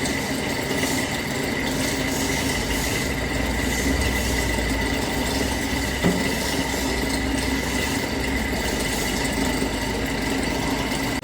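Electric angle grinder running steadily with a constant high whine, with one short click about six seconds in.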